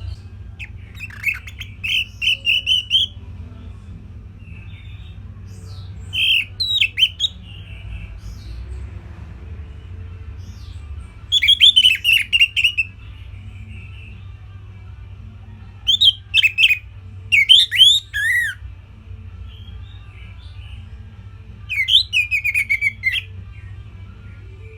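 Orange-headed thrush singing short, simple phrases of quick whistled notes, five phrases about five seconds apart, over a steady low hum.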